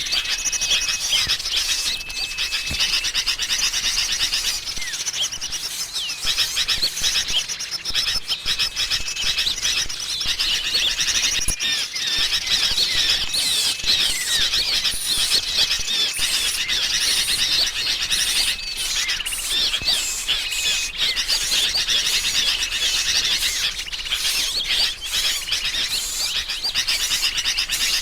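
A dense, unbroken chorus of small songbirds: agitated, noisy sooty-headed bulbul chatter mixed with the calls of other small birds, many quick chirps and rising and falling notes, with a few short held whistles. It is a bird-trapping lure recording, this commotion being the kind that draws small birds in.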